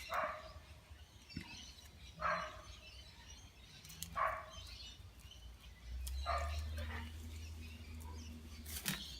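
A dog barking, single short barks about every two seconds. A low steady hum comes in about six seconds in.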